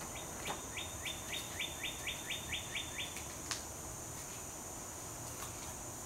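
A songbird sings a quick run of about eleven identical short notes, roughly three a second, over the first three seconds. Behind it runs a steady high-pitched insect drone, with a couple of sharp clicks.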